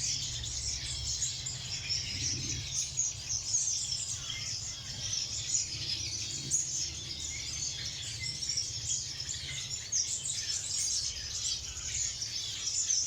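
Many small aviary birds chirping and twittering at once in a dense, continuous chorus, over a low steady rumble.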